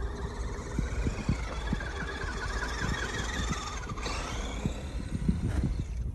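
Redcat Gen7 RC rock crawler's electric motor and gears whining as it pushes through deep snow, the pitch wavering up and down with the throttle, then dropping away about four seconds in. A steady low rumble and small knocks run underneath.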